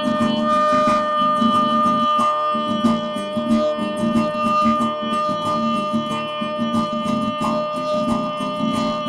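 Guitar played in an instrumental break of a folk song, strummed steadily with a long held note ringing over it.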